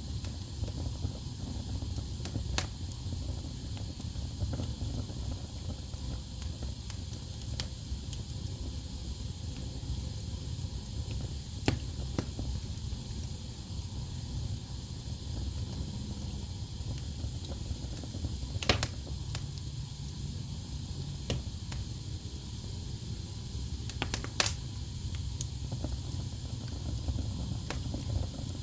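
Wood fire burning in a fireplace: a steady low rumble and hiss of the flames, with scattered sharp crackles and pops from the logs, the loudest about twelve seconds in, near nineteen seconds and near twenty-four seconds.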